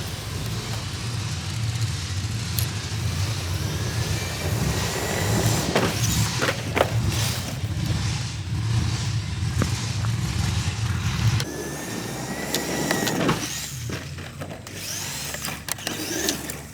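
A heavy vehicle engine running with a deep, steady rumble that falls away sharply about eleven and a half seconds in, with short high squeaks and sliding whistles over it.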